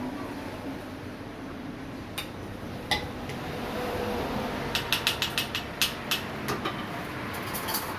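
Sharp mechanical clicks and clacks of coffee-making equipment. A few come scattered, then a quick run of about eight within a second and a half, then a couple more near the end, over a steady background hum.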